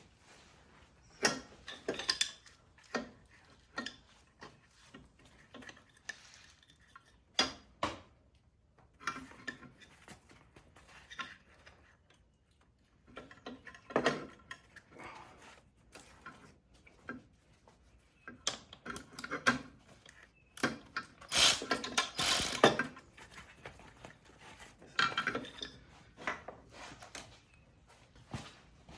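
Ratchet wrench and hand tools working on metal: irregular clicks, ratcheting and clanks in short bursts, the loudest cluster about three-quarters of the way in.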